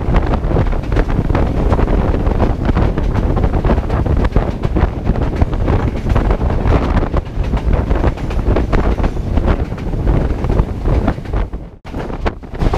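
Heavy wind buffeting the microphone over the rumble and clatter of a moving passenger train, with a sudden brief dip near the end.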